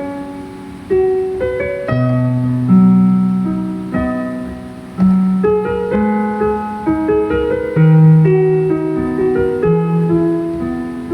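Slow piano music: chords and single notes struck and left to ring and fade, a new one about every second.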